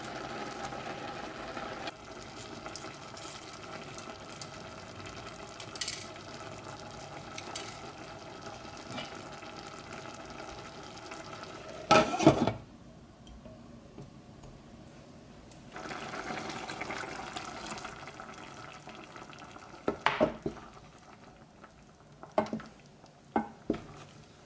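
Kitchen cooking sounds: a steady hiss with a faint hum for about half the time, then a loud clatter of cookware about halfway through, followed by a few sharp clinks of dishes or utensils near the end.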